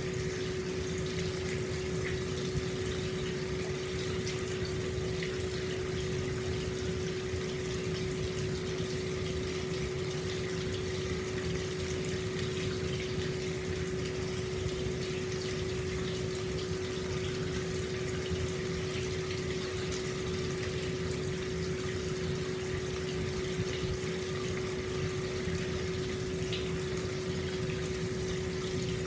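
Hot spring water flowing steadily into an open-air bath, with a constant hum running under the water noise.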